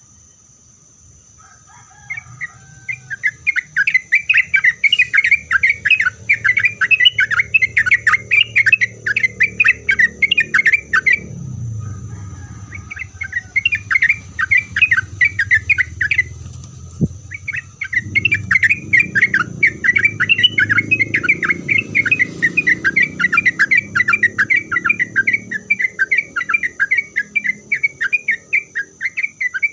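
Sooty-headed bulbul singing long, fast runs of repeated chattering notes, breaking off briefly twice. A steady high-pitched thin whine runs underneath.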